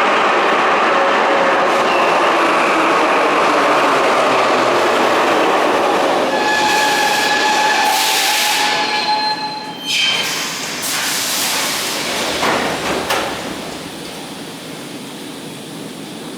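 Ezh3/Em-508T metro train running loudly into the station, then squealing steadily as it brakes. A few clanks follow around ten and twelve to thirteen seconds in, and the sound drops off as the train comes to a stop.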